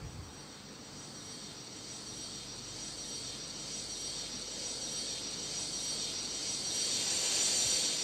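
Airbus A330 jet engines heard from aboard during takeoff: a steady rushing noise with a high, even whine that grows gradually louder, peaking near the end.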